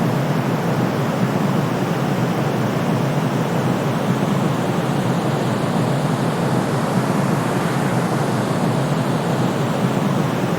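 Steady calming white-noise track, a deep even hiss weighted toward the low end like pink noise, with no rhythm or breaks.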